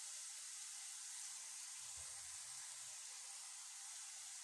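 Keema (minced meat) frying in oil in a kadai: a faint, steady sizzle.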